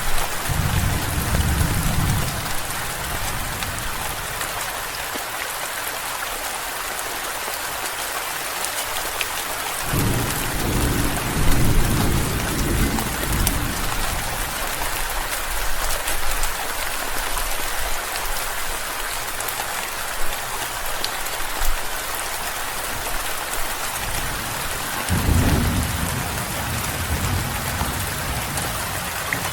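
Steady heavy rain falling, with low rolls of distant thunder rumbling three times: at the start, about a third of the way in, and again near the end.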